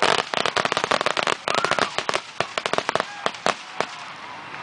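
Fireworks going off in a rapid run of crackling bangs, dense at first and thinning to a few scattered single cracks near the end.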